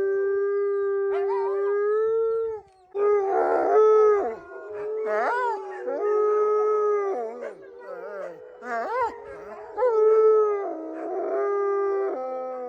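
A dog howling: one long, steady howl, then from about three seconds a second howling voice joins in, with overlapping wavering howls that rise and fall.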